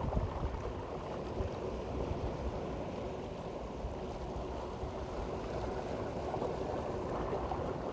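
Steady rushing noise of moving water and wind.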